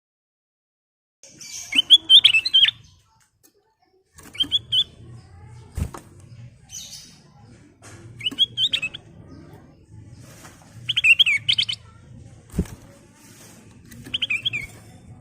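Kutilang emas bulbul singing short, bubbly warbled phrases, about five of them a few seconds apart. A low steady hum sits under the later phrases, and two brief low knocks are heard.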